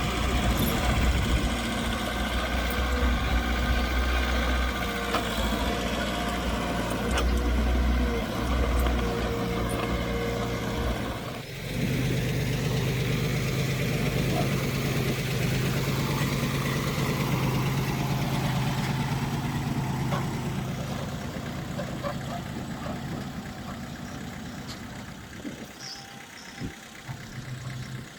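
Diesel engines of heavy earthmoving machinery running. The sound changes abruptly about eleven seconds in to a steadier engine tone, which fades away near the end.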